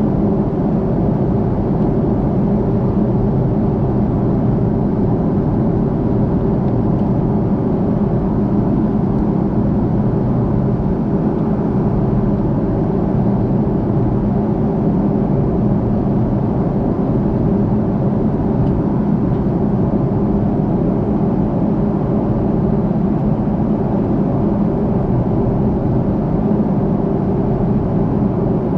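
Steady cabin drone inside an Airbus A330-343 airliner in flight: engine and airflow noise, an even low rushing with a faint steady hum underneath.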